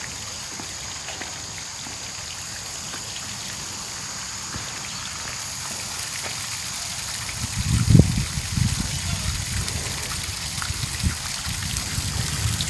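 Steady running or trickling water, slowly growing louder, with loud low rumbles and thumps starting about eight seconds in.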